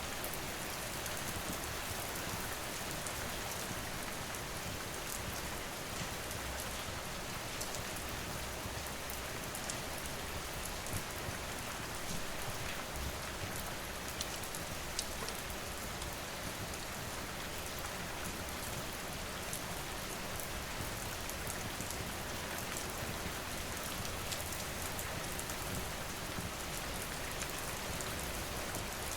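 Steady rain falling, with scattered short sharp ticks.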